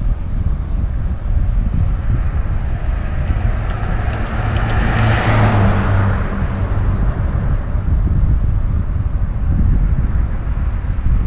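Wind buffeting a helmet-mounted camera's microphone on a moving bicycle, a steady low rumble. About four to six seconds in, a motor vehicle passes, its engine hum and tyre noise rising and then fading.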